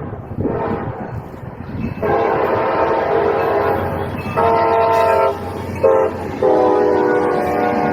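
Locomotive air horn sounding a chord in a long, long, short, long pattern, the grade-crossing signal, over the low rumble of the passing train.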